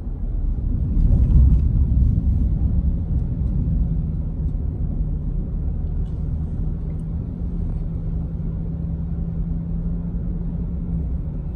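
Road and engine noise of a moving car heard from inside the cabin: a steady low rumble with a faint steady hum, a little louder in the first couple of seconds.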